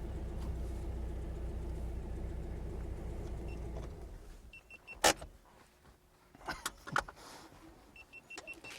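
Air-cooled 2.1-litre flat-four of a 1967 Porsche 912 running steadily, then shut off about four seconds in. A sharp click follows about a second later, then a few lighter clicks and groups of short high beeps.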